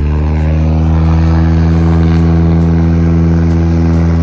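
Floatplane's propeller engine running up to takeoff power: its pitch climbs at the start, then holds steady and loud.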